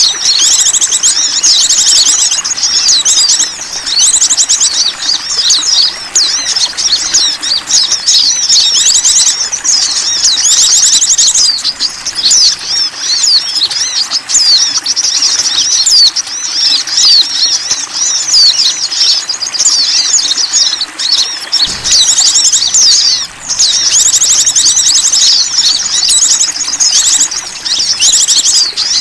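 Bird-lure recording of small songbirds chirping: dense, high-pitched chirps and fast trills layered almost without pause, with only brief dips, played to draw in small wild birds.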